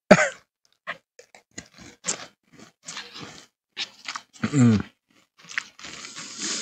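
Close-miked chewing of Cocoa Pebbles crispy rice cereal: irregular crunching bites and chews, with a short voiced hum from the eater about halfway through.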